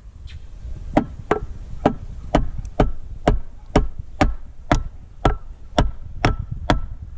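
Repeated light metal taps, about two a second, each with a short ring, striking a 1999 Mercury 90 hp two-stroke outboard's electric starter to free its gear jammed on the flywheel.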